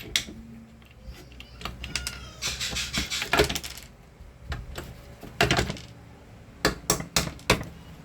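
Screws being taken out of a handheld vacuum cleaner's plastic housing: scattered clicks and metallic clinks of the screwdriver and loose screws, with a longer rattling, scraping stretch about two and a half to four seconds in.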